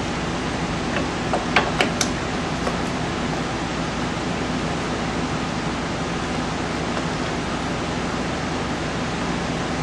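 Steady hiss of background noise, with a few light metallic clicks about one to two seconds in as the brake caliper's guide pins are handled and fitted.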